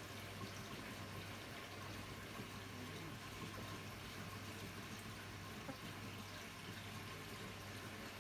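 Hotpoint-Ariston Aqualtis washer-dryer running, with a steady rush of water and a low hum.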